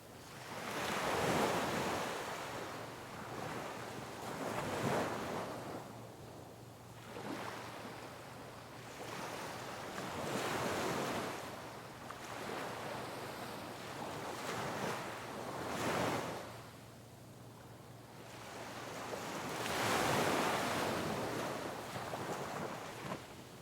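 Sea waves breaking on rocks, surging in repeatedly every few seconds, several of them loud crashes, with the wash of water between them.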